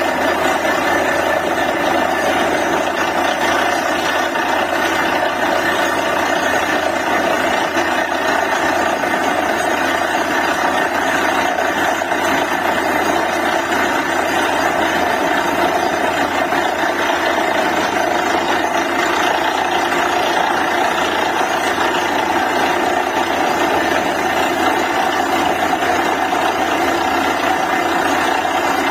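Truck-mounted DTH borewell drilling rig running steadily, a loud, even engine and machinery noise with no breaks.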